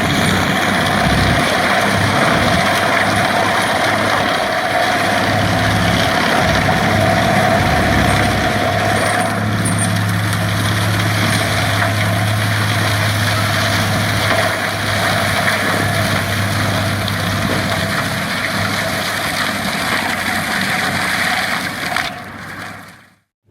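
Fendt tractor running a Seppi Multiforst forestry mulcher, a steady, loud machine noise that fades out shortly before the end.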